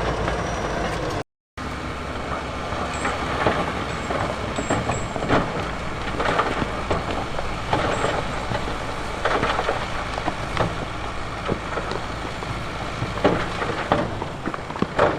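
Heavy diesel earthmoving machinery running steadily, with rock clattering and cracking in irregular knocks throughout. There is a momentary gap of silence about a second in.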